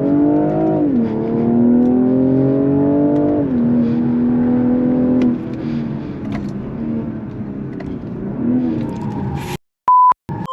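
BMW M340i's turbocharged inline-six accelerating hard on track, its pitch climbing and then dropping sharply at two upshifts before the note settles and eases off as the throttle lifts. Near the end the sound cuts out and a short high beep sounds.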